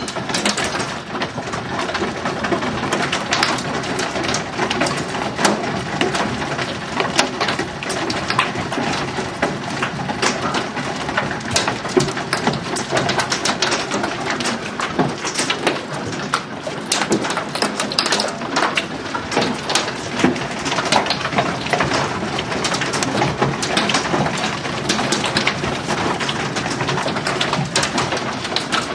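Hailstones falling hard and striking hard surfaces: a dense, steady clatter of many small impacts over a rushing hiss, with sharper individual hits throughout.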